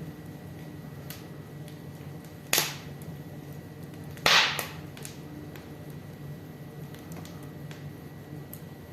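Wood fire in a fireplace crackling, with scattered small crackles and two loud pops about two seconds apart, the second the bigger.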